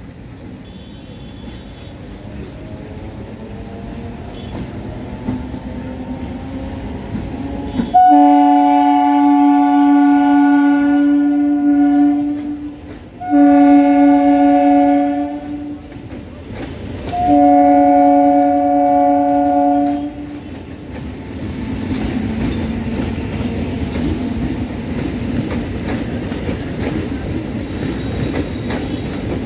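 A local electric train passing along a station platform. Its rumble grows as it nears, then its horn sounds three long, loud steady blasts from about 8 seconds in, the first about four seconds and the others two to three. Afterwards the coaches keep rolling past with a steady rumble and wheels clicking over the rail joints.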